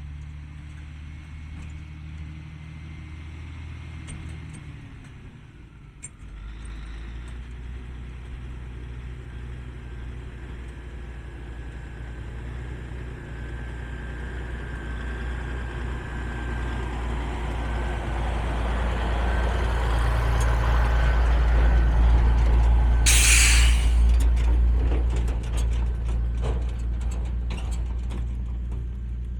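The diesel engine of a 1985 Ford 9000 heavy truck running, its sound changing about six seconds in and then growing steadily louder before easing off near the end. At its loudest there is a sharp hiss of air from the air brake system, lasting about a second.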